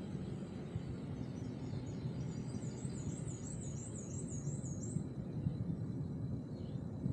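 A songbird sings a run of quick repeated high notes, about three a second, starting about two seconds in and lasting a couple of seconds, over a steady low rumble of a car driving on the road.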